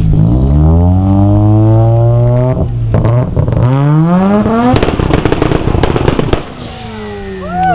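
Car engine with a loud exhaust revved hard twice, its pitch climbing each time, then held up with a rapid crackle of exhaust pops for about a second and a half before it cuts off sharply and falls back.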